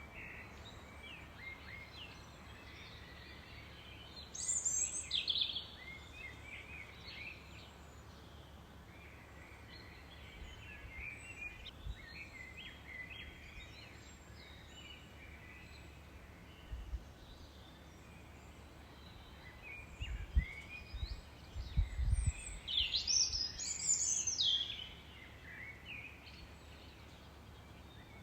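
Several songbirds singing and chirping over a steady faint outdoor hiss, with two louder bursts of rapid high song, one about four seconds in and a longer one a little past twenty seconds. A few low thumps come around twenty seconds in.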